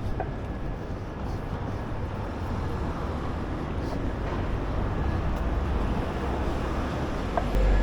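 Steady rumble of city vehicle traffic, swelling louder just before the end.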